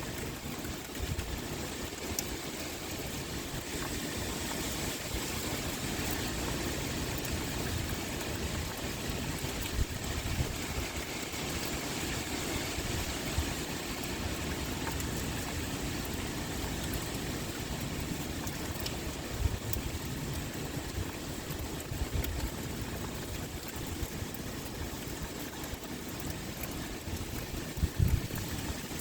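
Steady pouring rain with wind blowing: a continuous, even hiss, with a few brief low surges, the strongest near the end.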